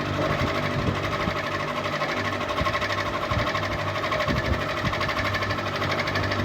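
Ceiling fan running steadily: a low electric hum under a fast, even, rattling pulse.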